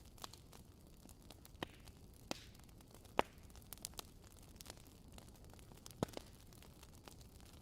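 Wood fire crackling in a fireplace: scattered sharp pops and snaps over a faint, steady low hiss, the loudest about three seconds in and again about six seconds in.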